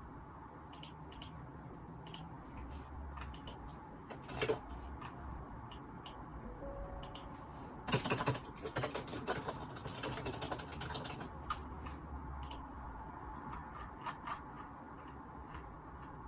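Computer keyboard typing picked up by a phone microphone: scattered keystrokes, then a burst of fast typing from about halfway, over a steady low background hum.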